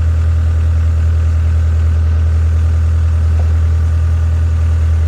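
The Hitachi EX60 excavator's diesel engine running steadily with an even, low hum.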